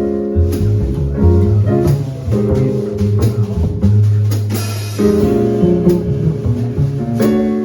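Live small-group jazz: piano, bass and drum kit playing together, the bass and piano holding pitched notes under steady drum and cymbal strokes, with a cymbal wash about four and a half seconds in.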